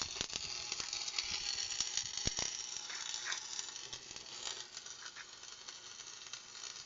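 Stick (arc) welding: the electrode's arc crackling and sizzling steadily, with a sharp tap about two seconds in, then cutting off abruptly.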